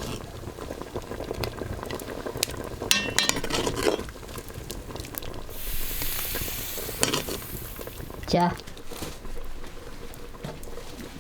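Cooking at a pot or wok: a utensil clinking and scraping against the metal, with a burst of hissing from the hot pan a little past the middle.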